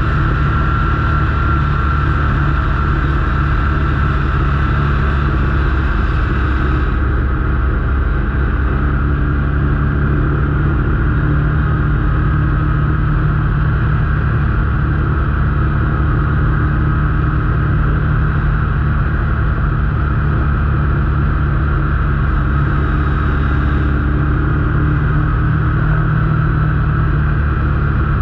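A vehicle engine running steadily at an even, unchanging loudness while driving.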